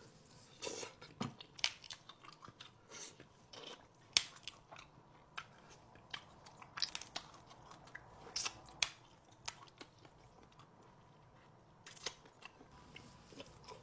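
Close-miked chewing and biting into seafood-boil food: an irregular run of sharp mouth clicks and smacks.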